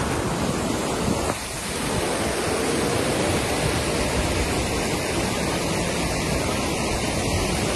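Floodwater rushing past in a steady torrent, dipping briefly about a second and a half in.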